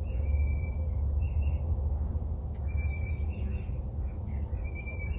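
Songbirds chirping in several short phrases over a steady low rumble.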